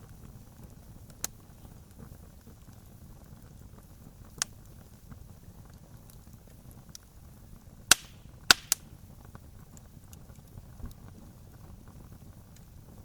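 Campfire crackling: a steady low hiss of burning with small crackles. Sharp single pops come about a second and about four seconds in, then a quick cluster of three louder pops a little past the middle.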